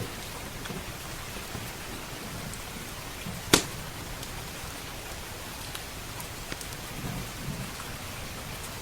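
Steady rain with scattered small crackles from a wood fire, and one loud sharp pop about three and a half seconds in.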